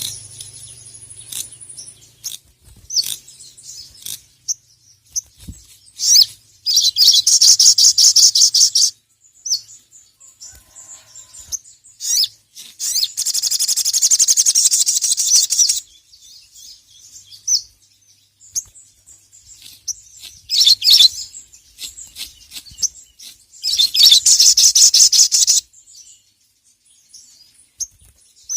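A sogok ontong (sogon) sunbird singing in high-pitched chirps, with three long runs of very rapid, rattling trills broken by short calls.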